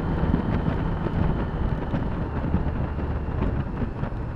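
Motorcycle engine running at road speed, a steady low hum under wind noise on the helmet microphone.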